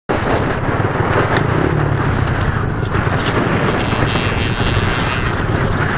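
Pit bike engine running steadily.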